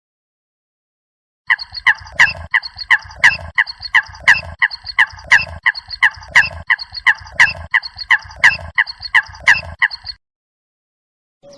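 A bird calling in a fast, even series of short, harsh notes, about three a second, that goes on for some eight seconds and then stops.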